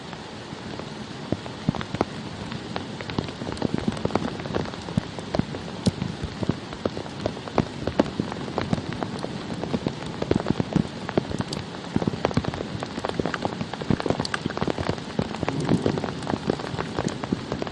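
Steady rain falling, with many separate drops striking close by over a constant hiss of rainfall.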